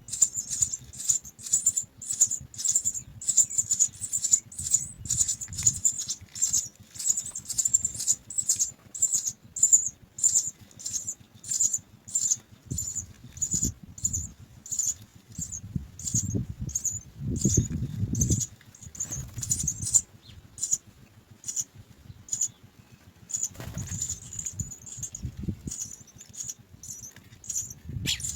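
House sparrow nestlings begging: rapid, high-pitched cheeps repeated two or three times a second, easing off for a few seconds about two-thirds of the way through before starting up again.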